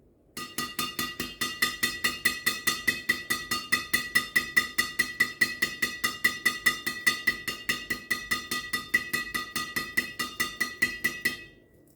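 Badminton racket string bed, Yonex Exbolt 63 strung at 27 lbs on a Toalson Laser Ion V, struck in quick even succession, about five hits a second, each a ringing ping. The hits stop about a second before the end.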